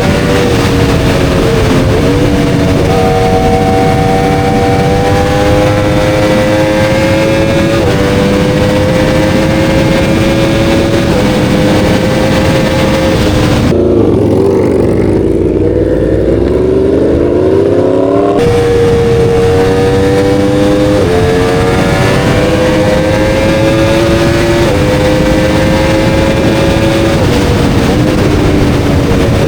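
Motorcycle engine under way, its pitch climbing slowly and dropping at each gear change every few seconds. About halfway through, the sound goes muffled for a few seconds while the revs dip and climb again.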